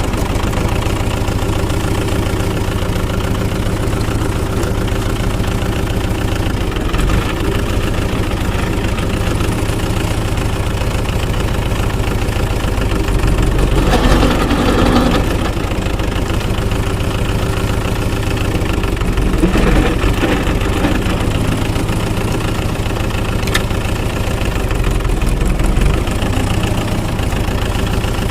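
Tractor engine idling steadily, swelling briefly about halfway through and again about two-thirds in.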